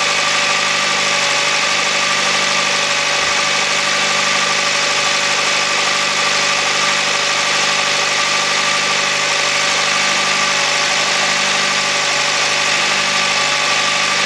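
Honda Odyssey e:HEV's petrol engine running steadily at idle during a cold-start warm-up, with an even, unchanging tone.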